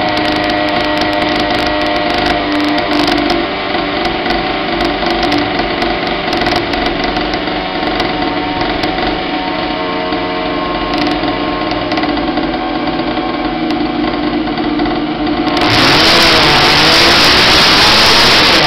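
Small two-stroke Goped engine, a Zenoah G260, freshly ported with raised compression, running steadily at low speed on a test bed. About three seconds before the end the throttle is opened and it revs up sharply, much louder and rising in pitch.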